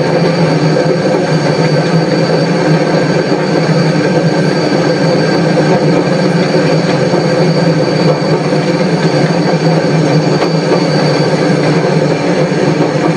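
Train running along the track, a steady, loud noise at an even level with a thin high whine held through it.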